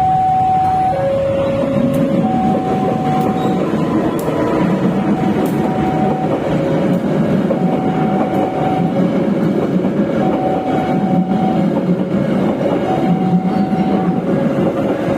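Railway level-crossing alarm sounding two alternating tones, switching about every second, while a train passes with a steady rumble and rattle of wagons.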